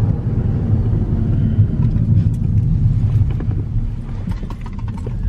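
Steady low road and engine rumble inside the cabin of a moving Hyundai Elantra.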